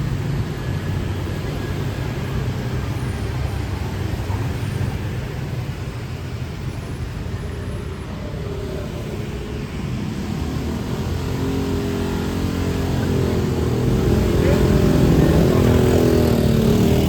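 City street traffic: a steady rumble of passing vehicle engines and tyres. In the second half an engine drone grows louder as a vehicle comes close.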